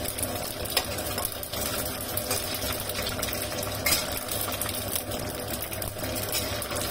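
Small dried anchovies frying in oil in a wok: a steady sizzle with a few clicks and scrapes of a metal spatula and strainer against the wok, over a steady low hum.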